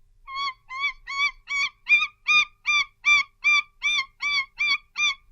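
A bird calling a long series of short, evenly spaced, pitched notes, about two to three a second, louder after the first couple of calls.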